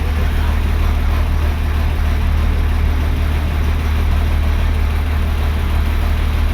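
Boat engine running steadily with a deep, constant hum.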